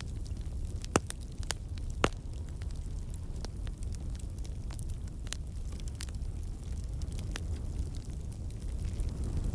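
Wood campfire burning with a steady low rumble and irregular sharp crackles and pops from the logs, two louder pops about one and two seconds in. The crackling is moisture and sap in the wood turning to steam and escaping.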